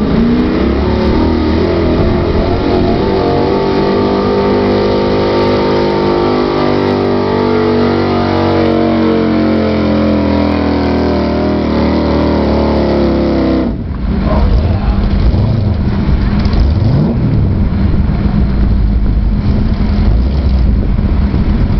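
Pulling truck's 502 big-block V8 running flat out under heavy load, its pitch climbing over the first few seconds, then holding and slowly sagging as it bogs down. The engine note cuts off abruptly about 14 seconds in, leaving a low, uneven rumble.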